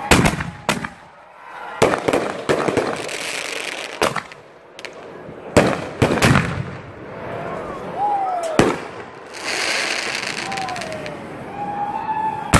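Fireworks shells being launched from a rack of mortar tubes: a string of sharp, loud launch bangs at irregular intervals, with stretches of hiss and a few short whistling tones between them.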